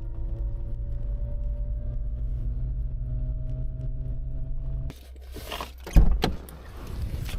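Subaru Sambar kei van engine and road noise while driving, the engine note slowly rising. About five seconds in it breaks off into clicks and a single loud knock.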